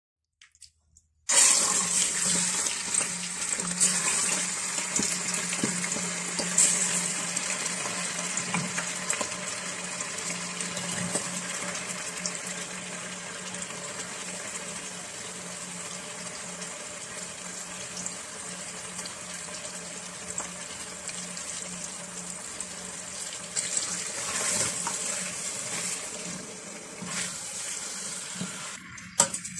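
Chicken pieces, onion and coriander sizzling and frying in hot oil in a stainless steel pot, a dense crackling hiss that starts suddenly about a second in and slowly eases off.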